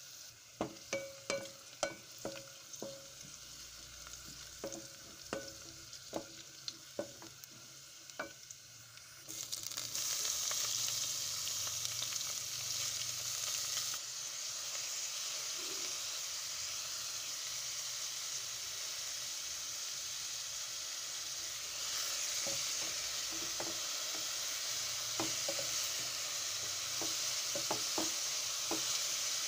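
Chopped onions sizzling in oil in a metal pot, with a dozen or so sharp ringing knocks of the stirring spoon against the pot. About nine seconds in, the sizzling jumps to a much louder, steady frying hiss as shredded cabbage fries and is stirred with a wooden spoon, with a few more knocks near the end.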